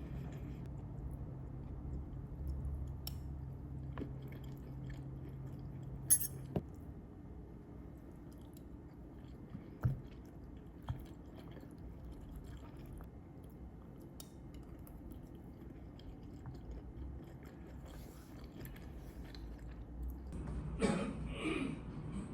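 Faint chewing over a low steady hum that cuts off about six seconds in, with a few sharp clicks. A short wavering vocal-like sound comes near the end.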